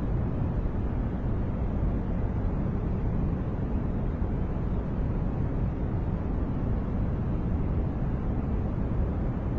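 A steady noise track of the relaxation 'white noise' kind: an even, unchanging rush with no rhythm or events, heavy in the bass and dull in the treble.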